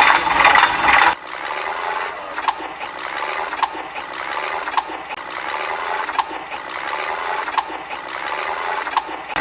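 A loud vehicle-like noise cuts off about a second in. A small mechanism follows with a rasping, ratchet-like sound and a sharp click about once a second.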